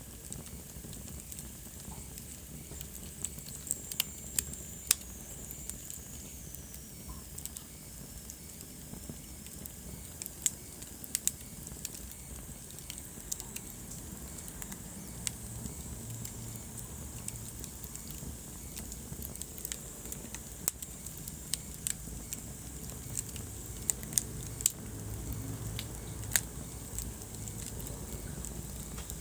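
Wood fire burning in a fireplace: irregular sharp crackles and pops over a low steady rumble of the flames. A faint high whistle falls in pitch a few seconds in.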